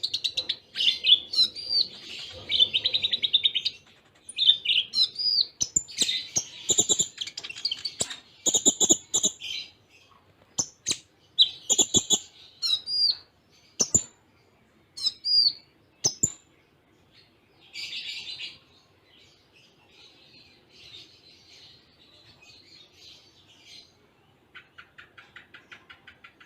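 A konin (kolibri ninja sunbird) singing a fast, high-pitched twittering song of chirps and hooked whistles packed close together, with cililin-style phrases, broken by a few sharp clicks. Near the end, a quick even trill of about eight notes a second.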